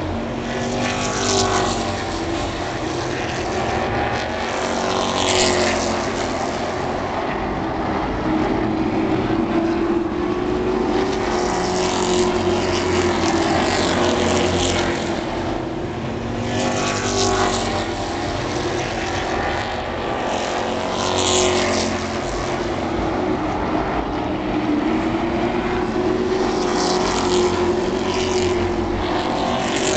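Oval-track super trucks racing at speed, their engines rising and falling in pitch as they circle, with trucks passing close several times.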